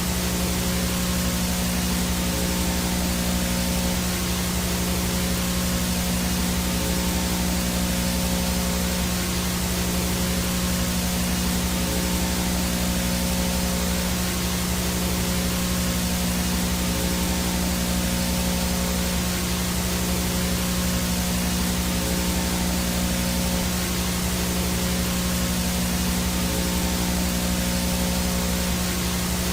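VHS static noise from a blank, no-signal analog video feed: a steady hiss with a low electrical hum underneath and a faint high-pitched whine, unchanging throughout.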